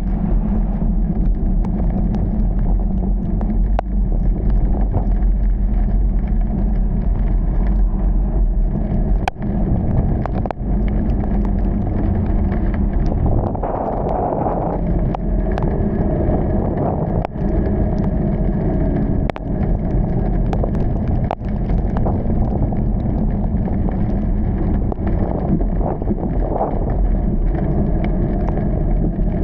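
Car driving along: steady low engine and road rumble, with a few sharp knocks scattered through.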